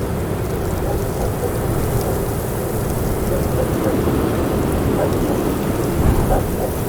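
Strong wind rushing and buffeting the microphone, a steady low rumble with a stronger gust about six seconds in.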